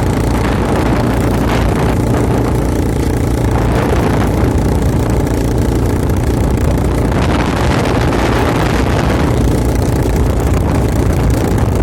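Quad bike engine running steadily, with a rushing noise that swells and fades a few times.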